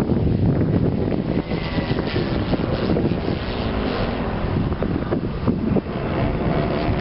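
Engine of a giant-scale radio-controlled Extra 330L model airplane running, its pitch gliding a couple of seconds in, heard under heavy wind noise on the microphone.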